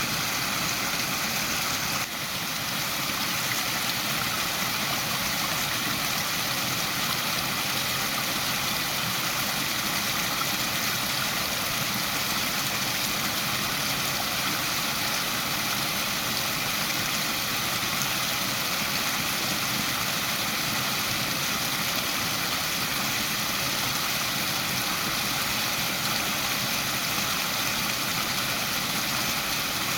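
Waterfall: water pouring and splashing steadily in an even rush, with a brief slight dip about two seconds in.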